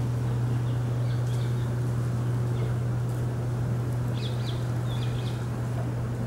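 Faint, short bird chirps in the background, a few at a time, about one second, two and a half seconds and four to five seconds in, over a steady low hum.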